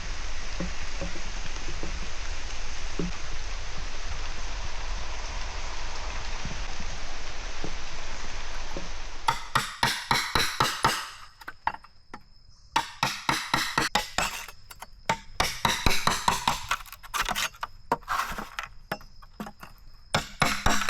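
Steady rain hiss, then, about nine seconds in, quick clusters of sharp wooden knocks with short pauses between them: bamboo being chopped and struck.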